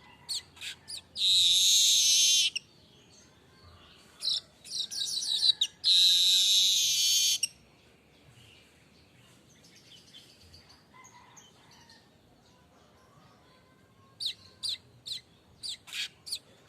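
Manyar kembang weaver singing: a few sharp chips, then two long loud sizzling buzzes with a rattling run between them, a quieter pause, and a quick series of sharp chips near the end.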